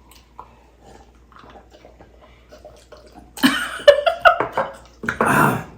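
Close-miked eating sounds of juicy steamed pork momos. Faint mouth clicks at first, then loud wet slurping and chewing about three and a half seconds in, and another loud slurp near the end.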